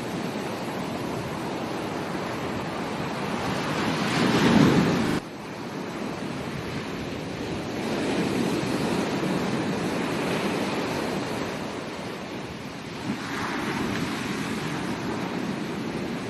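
Ocean waves breaking and washing on a beach, a continuous surf that swells and ebbs with each wave. The loudest wave builds about four to five seconds in and drops off abruptly, followed by gentler swells.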